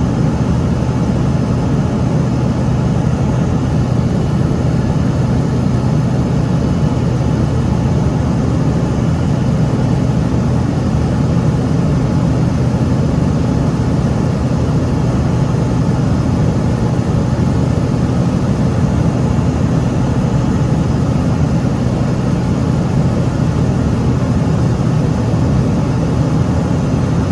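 Steady cabin noise inside an Embraer ERJ-145 in flight after takeoff: the even drone of its rear-mounted Rolls-Royce AE 3007 turbofans with a low hum and rushing airflow, unchanging throughout.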